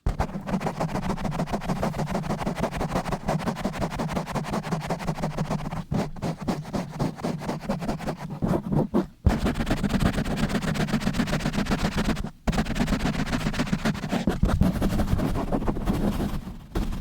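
Fast, rough scratching and rubbing directly on a microphone in dense, rapid strokes, broken by a few short pauses.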